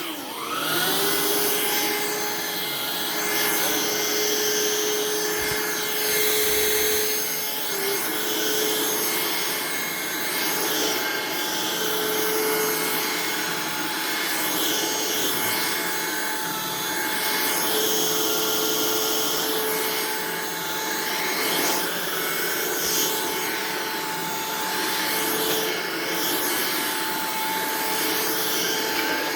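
Hoover React cordless vacuum spinning up about a second in, then running steadily with a constant motor hum while it is worked over the floor. The level swells and dips as it is pushed back and forth.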